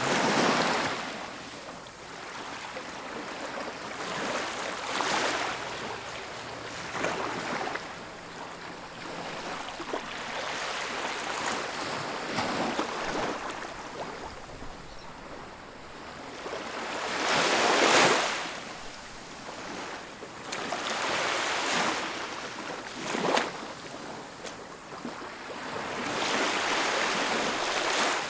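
Ocean waves breaking on a beach: a steady wash of surf that swells and recedes every few seconds, the loudest wave crashing about eighteen seconds in.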